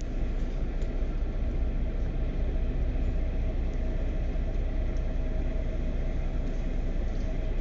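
Steady low drone of a passenger boat's engines heard aboard while the vessel is under way, with a faint steady hum above it.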